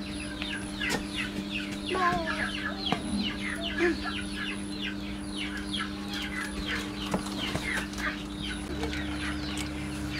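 Many birds chirping in quick, short falling notes, over a steady low hum.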